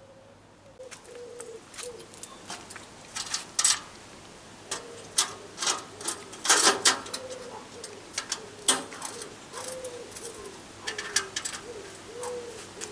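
A pigeon cooing repeatedly, with a string of sharp clicks and knocks over it; the loudest knocks come about six to seven seconds in.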